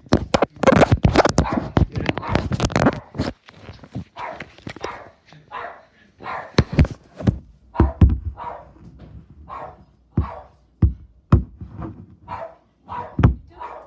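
A dog barking over and over in short barks, with sharp knocks among them.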